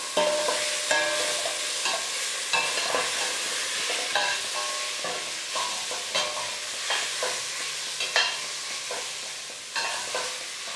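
Chopped onion, celery and carrot frying in oil in a large pot with tomato paste, a steady sizzle, while being stirred, with irregular knocks and scrapes of the stirring against the pot.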